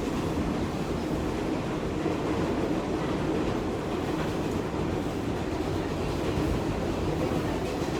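Number 7 subway train running on the track, heard from inside the car: a steady rumble of wheels and car noise.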